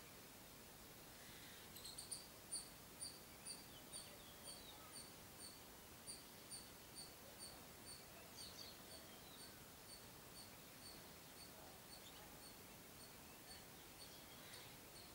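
Faint birdsong: a bird repeating one short high note about twice a second, slowly fading, with a few other faint chirps scattered through.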